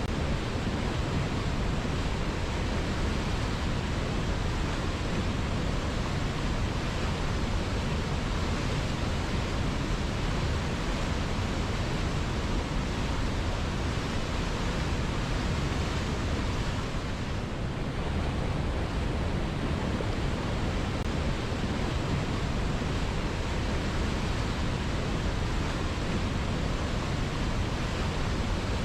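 River water flowing in a steady rush, with a slight dip in level about two-thirds of the way through.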